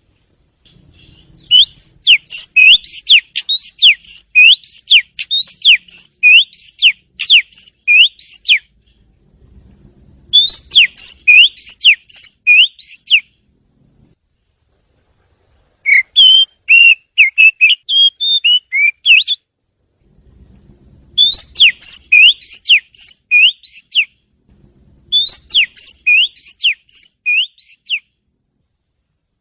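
Oriental magpie-robin singing: five bouts of loud, repeated whistled notes that glide up and down, each bout a few seconds long with short pauses between.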